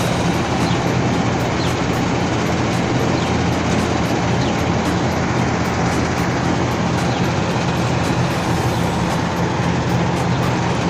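Steady machine noise: an even rushing sound over a constant low hum, with no change in pitch or level.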